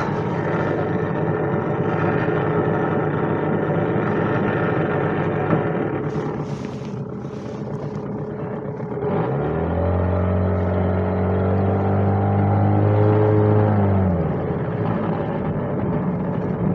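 Boat outboard motor running under way. About nine seconds in its note glides up and holds steady for about five seconds, drops back, then climbs again at the end.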